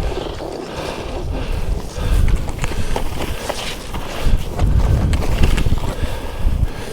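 Skis running through deep powder snow, with wind buffeting the camera microphone in low surges and scattered knocks and clicks.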